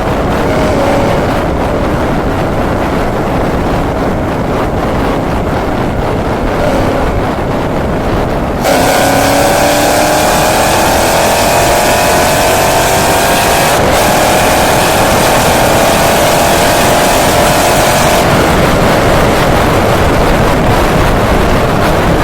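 Boosted three-valve Ford V8 heard from inside the car on a run. Loud engine and road noise jumps up about nine seconds in as the engine is put under hard acceleration, with a pitched drone climbing slowly for around ten seconds before it eases off.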